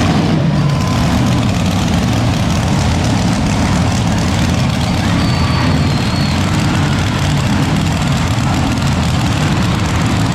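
Monster truck engines running loud and steady, a heavy low engine sound.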